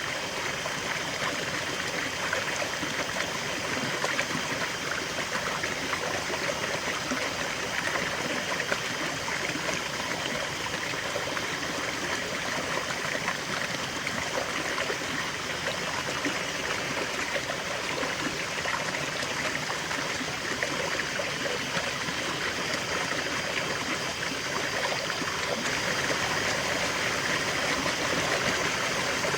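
River water flowing and splashing steadily, a continuous rushing with small trickling, babbling detail.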